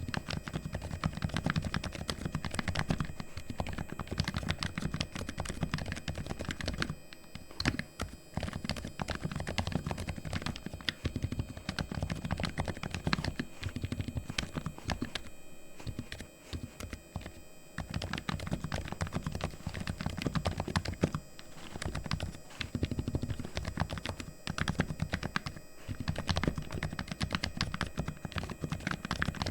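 Typing on a Razer Huntsman V2 keyboard with fully lubricated linear optical switches: a fast, dense run of keystrokes, with short breaks about seven seconds in and again around sixteen to eighteen seconds.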